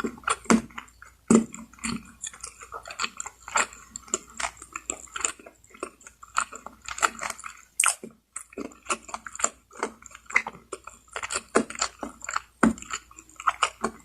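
A person chewing and biting lechon manok (Filipino spit-roasted chicken) close to the microphone: a quick, irregular run of wet mouth clicks and smacks, with a brief pause a little past the middle.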